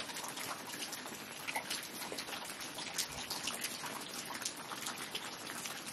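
Campfire crackling: a steady hiss with many small irregular pops.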